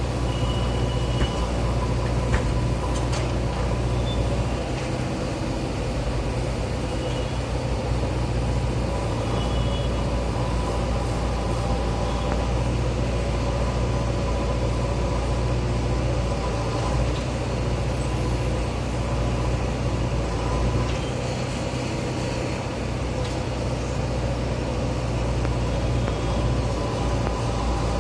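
JCB backhoe loader's diesel engine running steadily under digging work, with a few light knocks in the first few seconds.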